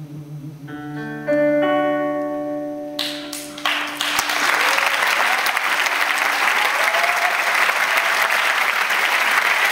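The last held instrumental notes of the song ring out, then audience applause breaks out about three seconds in and continues steadily to the end.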